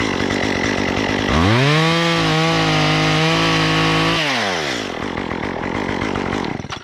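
Two-stroke chainsaw idling, then revved to full throttle about a second in and held for about three seconds with slight dips while cutting, before dropping back to idle. The engine cuts off near the end.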